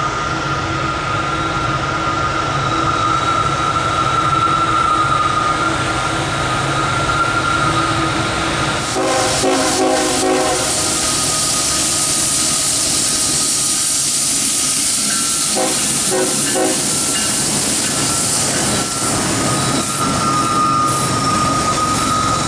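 Heavy freight train with diesel locomotives working up a grade, a loud steady rumble with a high thin whine running through it. The locomotive horn sounds a chord twice: about 9 seconds in for under two seconds, and a shorter blast about 16 seconds in.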